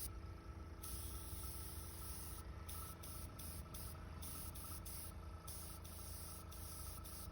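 Faint steady high hiss over a low hum, with the hiss dropping out briefly a few times.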